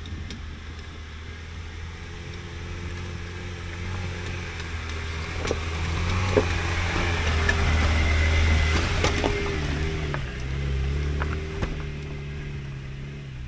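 Lada Niva 1.7 four-cylinder petrol engine running steadily as the car climbs a rocky track past, growing louder as it comes by and fading as it pulls away, its pitch shifting a little near the end. A few sharp knocks are heard, mostly around the middle.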